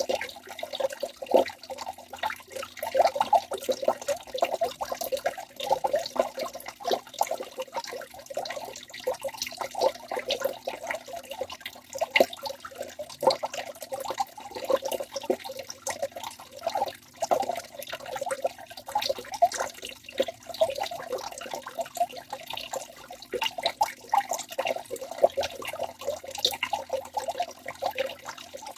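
Waterfall: rushing water splashing steadily, with a constant scatter of quick drips and spatters on top.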